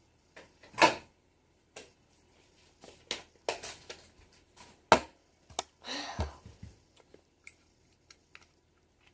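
Scattered clicks and knocks of small objects being handled, with two louder knocks, one about a second in and one about five seconds in.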